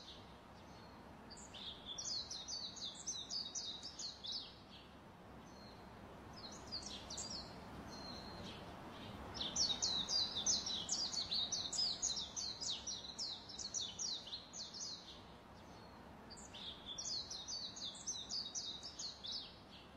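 Small songbird chirping in fast trills of high, quick chirps. It sings in phrases of two to five seconds with short pauses between, over a faint steady hiss.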